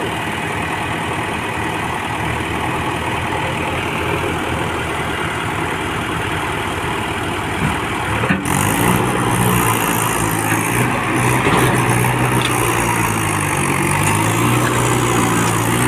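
Tractor diesel engines running steadily; about eight seconds in the engine gets louder and its pitch rises and falls repeatedly, as the engine works under load pulling the loaded truck.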